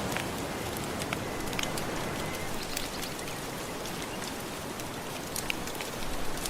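Wood fire crackling with scattered sharp pops over a steady wash of soft ocean waves.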